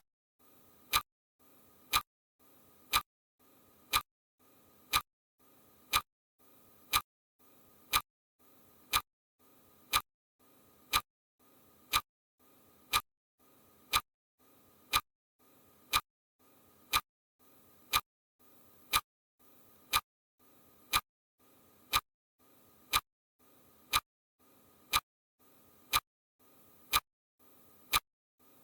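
Steady ticking of a clock, one sharp tick every second at an even beat, with a faint hiss between ticks.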